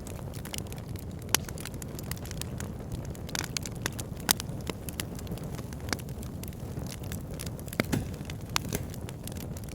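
Wood fire burning in a log burner: a steady low rumble with irregular sharp crackles and pops from the burning logs, a few of them louder, at about 1.4, 4.3 and 8 seconds in.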